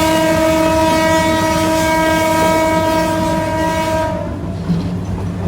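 Train horn sounding one long, steady blast that cuts off about four seconds in, over the constant rumble of the moving train.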